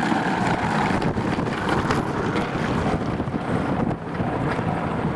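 A train running past a railway level crossing: a steady rumble of wheels and cars, with wind noise on the microphone.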